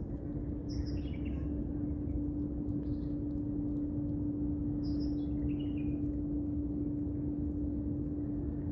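A steady low hum with a rumble beneath it, and small birds chirping a few times in the background, near the start, about three seconds in and again around five to six seconds in.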